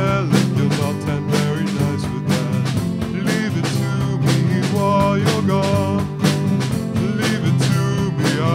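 A band's song with guitar over a steady drum-kit beat, in a stretch without words.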